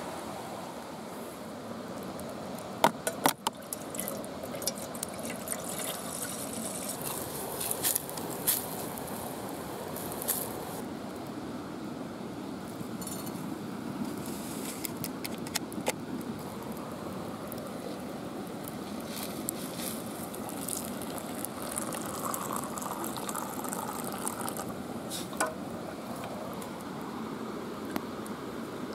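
Steady rush of running water, with scattered sharp clicks and pops, the loudest about three seconds in.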